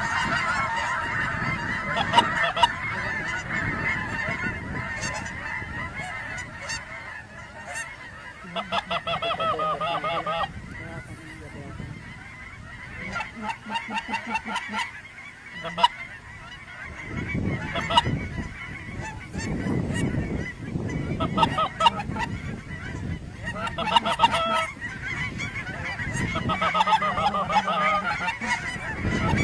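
A flock of geese honking, many calls overlapping, dense at first and then coming in repeated bursts every few seconds.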